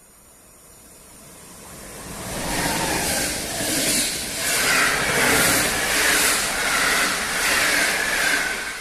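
Passenger train hauled by an EU160 (Newag Griffin) electric locomotive approaching and passing at speed, rumble and wheel-on-rail noise building then pulsing in a regular beat about once a second as the coaches go by, easing off near the end.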